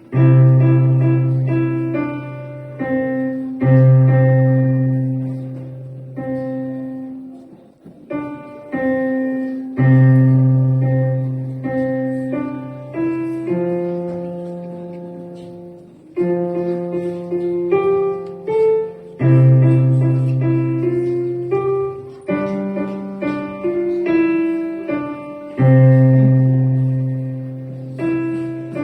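Piano playing a simple children's-song melody over low bass notes struck about every three seconds, each note fading after it is struck.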